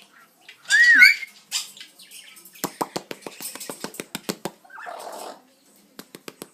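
Amazon parrot giving a short, loud warbling whistle, then a rapid staccato run of laugh-like pulses, about seven a second, broken briefly by a raspy call.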